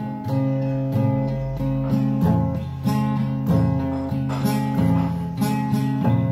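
Acoustic guitar playing an instrumental intro, chords strummed or picked in a steady rhythm, a new attack about every half second.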